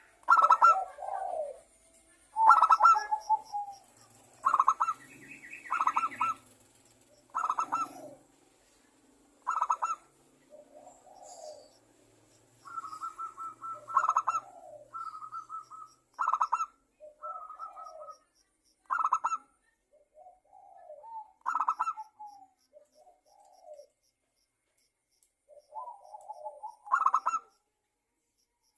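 Zebra doves (perkutut) cooing: short bursts of rapid staccato notes repeating about every two seconds, with softer, lower calls between them.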